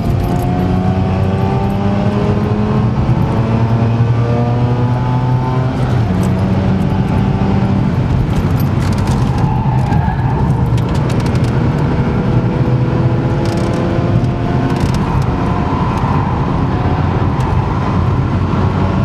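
Mazda RX-8's twin-rotor Wankel rotary engine heard from inside the cabin under hard acceleration. Its pitch climbs through the gears, drops at an upshift about six seconds in, then climbs again until around fourteen seconds. Dense road and wind noise runs underneath, with a few sharp clicks in the middle.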